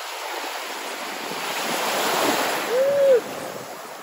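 Sea waves washing in at the shore, the surge swelling to a peak about two seconds in. Near the end comes a short tone that rises and falls, the loudest moment.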